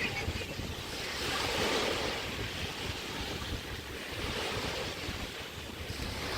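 Small bay waves breaking and washing up on a sandy shore, with wind buffeting the microphone. One wash swells up about a second and a half in, and a smaller one follows around four seconds.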